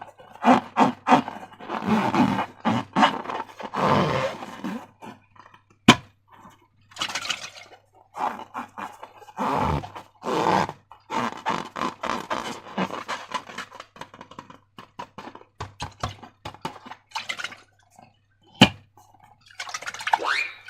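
Wet slime squelching and crackling as it is squeezed and worked by hand, in irregular bursts, with two sharp snaps, about six seconds in and near the end.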